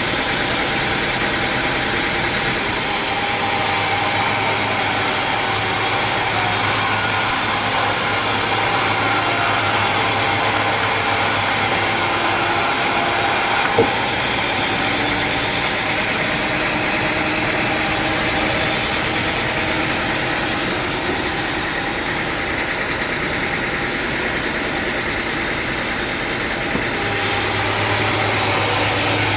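Sawmill machinery running steadily, with a low hum that cuts in and out abruptly a few times and a single sharp knock about halfway through.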